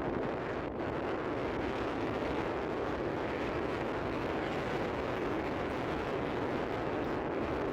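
Royal Enfield Classic 350 motorcycle riding at a steady speed, its single-cylinder engine running under a constant wind rush on the microphone.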